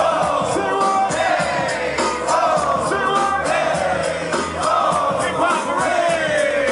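Live hip-hop music over a PA: a drum beat and a steady bass line, with voices singing a short melodic phrase over and over and the crowd joining in.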